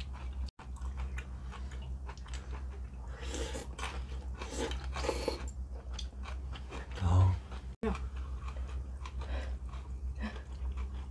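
Close-up eating sounds: chewing and crunching a mouthful of cold noodles with radish and greens from water kimchi, with light clicks of steel chopsticks against the bowls, over a steady low hum.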